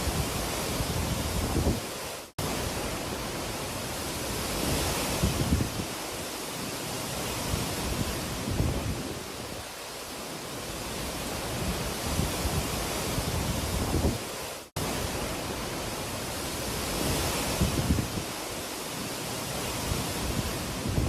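Hurricane wind gusting and buffeting the microphone in uneven low rumbles over a steady rushing hiss. The sound cuts out for an instant twice.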